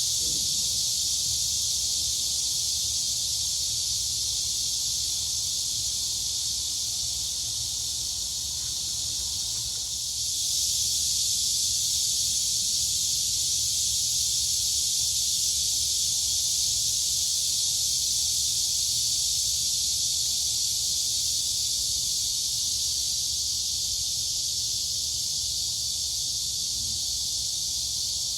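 Crickets and cicadas in a dense, steady high-pitched chorus. It eases slightly about eight to ten seconds in, then swells back.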